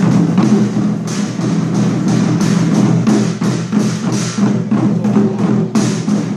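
Chinese war-drum ensemble playing a dense, driving rhythm of many closely spaced drum strokes, with no pause.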